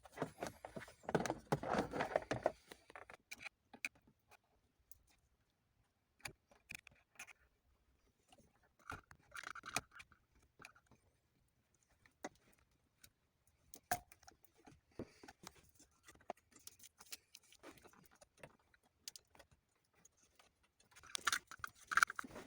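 Hand tools and small metal parts being handled: scattered sharp clicks and taps, with short stretches of jangling and rattling near the start, about ten seconds in, and near the end.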